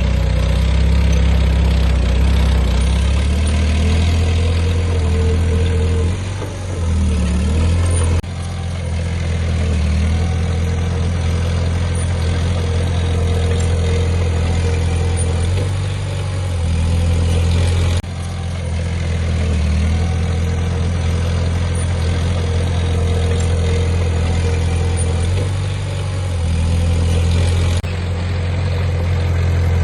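Heavy diesel earthmoving machinery engine running at a steady low throttle with a deep drone. The sound changes abruptly about every ten seconds.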